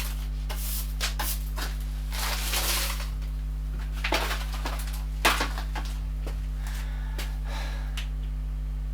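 Rustling, rubbing handling noises with a few sharp knocks, the loudest about five seconds in, over a steady low electrical hum.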